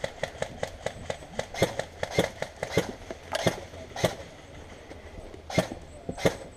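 Airsoft guns firing: a quick string of sharp clicks, about four a second, then four louder single cracks in the second half.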